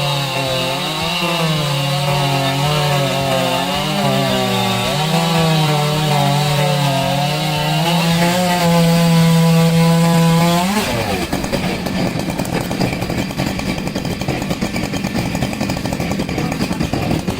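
Chainsaw engine running at high revs with a wavering pitch; about eleven seconds in the pitch drops sharply and the sound turns rough and noisy as the chain cuts into wood.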